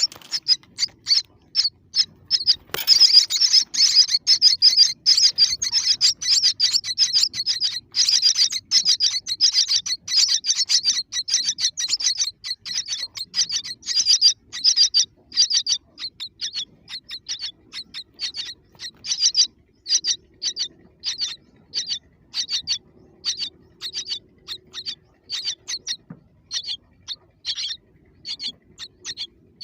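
Baby birds chirping in short, high, repeated calls. About three seconds in the calls thicken into a dense, continuous stream. They thin out after about a quarter-minute to roughly two calls a second.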